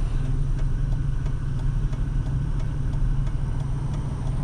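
Car engine running steadily with a low rumble and road noise, heard from inside the moving car.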